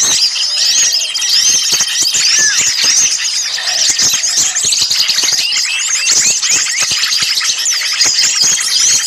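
Dense, noisy chorus of many small songbirds chirping and twittering at once, overlapping high-pitched calls without pause: a bird-lure recording meant to draw small birds in.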